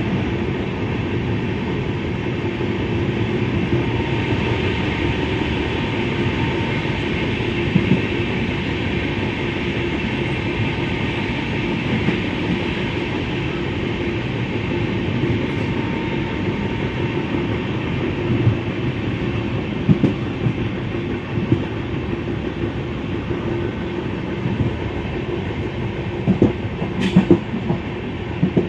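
22548 Sabarmati–Gwalior Superfast Express running at speed, heard from on board: a steady rumble of wheels on the rails. A few sharper clacks stand out, about two-thirds of the way in and several close together near the end.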